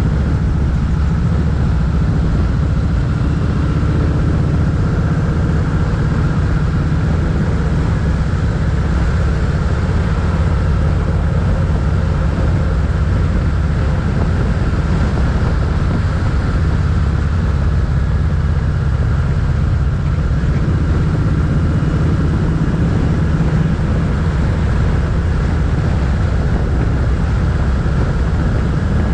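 Motorcycle engine running steadily under way, a constant low engine note with road and wind noise.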